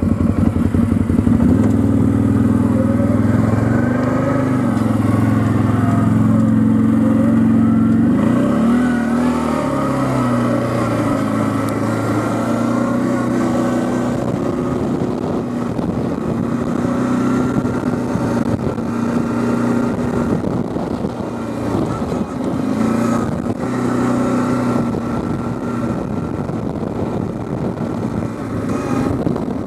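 Quad bike (ATV) engine running under way, its pitch dipping and rising with the throttle in the first ten seconds or so, then holding steadier.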